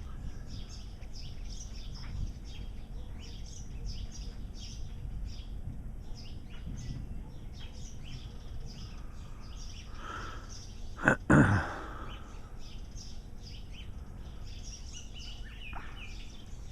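Small birds chirping again and again over a steady low rumble, with one brief loud knock about eleven seconds in.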